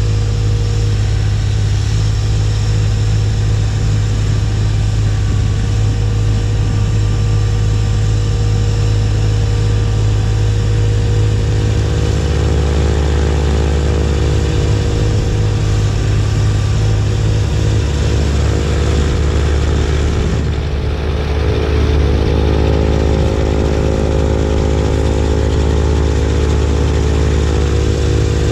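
Kubota B2601 compact tractor's three-cylinder diesel engine running steadily while working a B2782B snowblower. The engine note deepens about twelve seconds in, then dips briefly and comes back louder around twenty-one seconds in.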